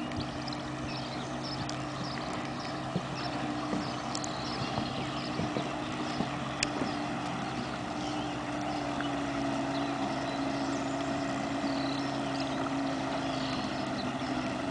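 Small boat's outboard motor running steadily under way, its pitch drifting a little partway through.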